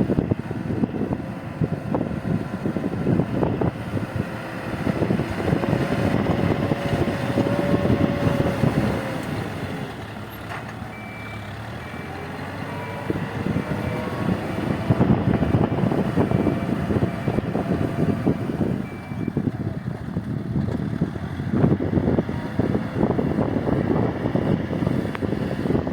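Heavy diesel earth-moving machine running and working, its engine note rising and falling, with a reversing alarm beeping steadily for about eight seconds in the middle.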